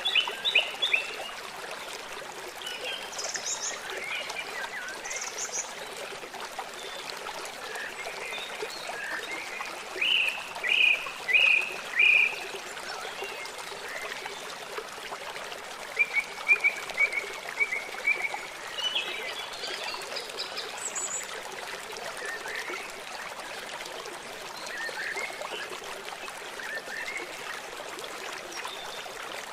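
River or stream water running steadily, with several birds singing and chirping over it; the loudest are four strong chirps about ten seconds in, followed later by a quick run of notes.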